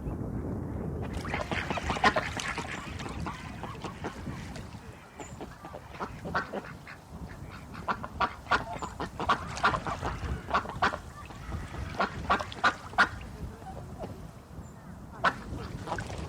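Ducks quacking in repeated short calls, bunched into runs of rapid quacks with brief lulls between them.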